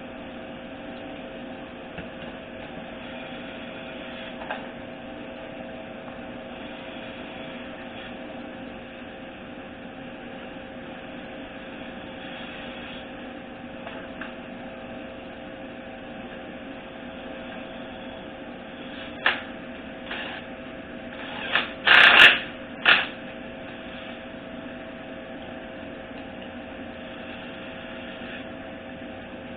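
Steady electrical hum of a workshop, with a few sharp knocks and clatters of parts or tools being handled on the transmission bench about two-thirds of the way through, the loudest near the end.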